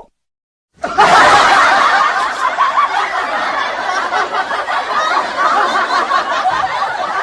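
Laugh-track sound effect: a crowd of people laughing, starting suddenly about a second in.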